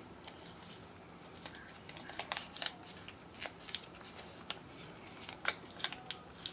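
Scattered light clicks and rustles of hand work on small parts, coming irregularly a few times a second.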